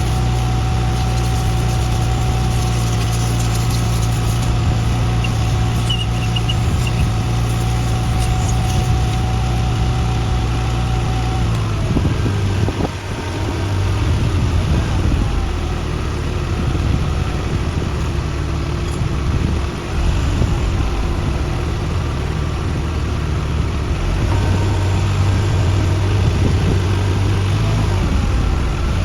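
Engine running steadily, its sound turning rougher and less even about twelve seconds in, then settling back to a steady note near the end.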